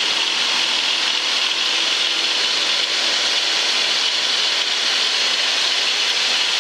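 Steady engine and propeller noise of a single-engine Cessna heard inside the cabin at climb power, an even, unbroken hiss with a faint hum beneath.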